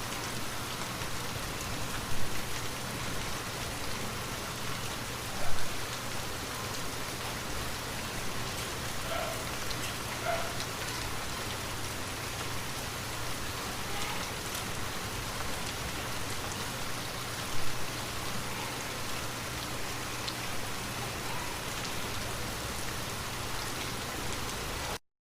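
Steady rain falling, with a few louder drops standing out about two, five and a half and seventeen and a half seconds in. It cuts off suddenly near the end.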